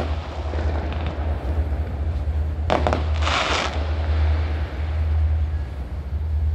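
Fireworks: one sharp bang about three seconds in, followed at once by a short crackle, over a steady low rumble.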